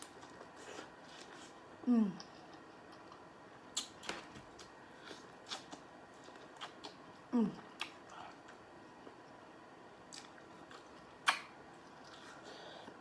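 A person eating close to the microphone: sparse wet clicks and smacks of chewing and lips. Twice, about two and seven and a half seconds in, there is a short falling hum of enjoyment.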